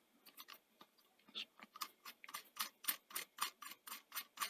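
Faint, even ticking of the Sony SL-C6 Betamax's tape-loading gear train turning. A few scattered clicks settle into about six ticks a second after the first couple of seconds. This gear had been binding and making noise during loading; refitted, it now runs with only this light ticking, which the restorer calls just quieter.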